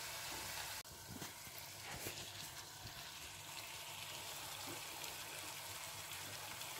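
Diced onion frying in oil and butter in a frying pan, a faint steady sizzle with small pops. About a second in the sound drops slightly, and the sizzle carries on as diced carrot and bell pepper fry with the onion.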